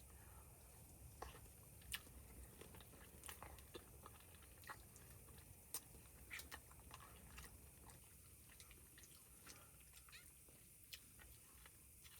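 Faint chewing: scattered small clicks and crunches at an irregular pace over near silence.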